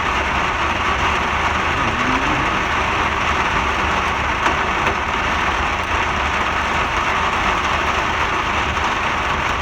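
Steady rain: a continuous even hiss with a low rumble underneath.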